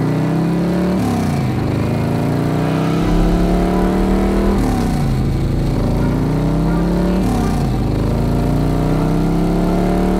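Car engine accelerating through the gears: the pitch climbs steadily and drops back at each shift, twice, then climbs again.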